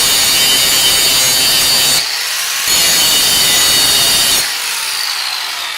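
Power grinder grinding down steel on a lawn tractor's axle to make the wheel's key fit, a harsh steady high-pitched whine. It bears in hard for the first two seconds and again from about three seconds in, lighter in between and near the end.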